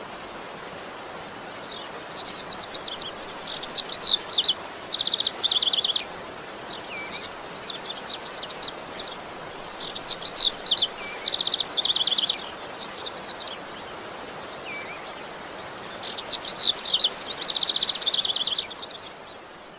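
A songbird singing in three bouts of rapid, high-pitched trills and chirps, each a few seconds long, over a steady background hiss.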